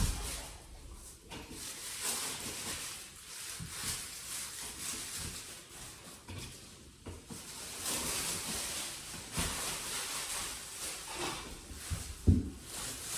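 Rustling and scraping of work being handled, with small knocks and one sharp knock near the end.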